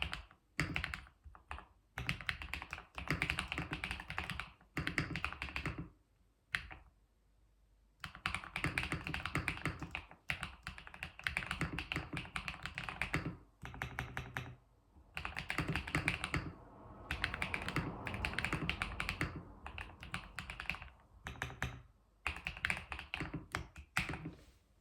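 Computer keyboard being typed on in fast runs of clacking keystrokes, with short pauses between runs.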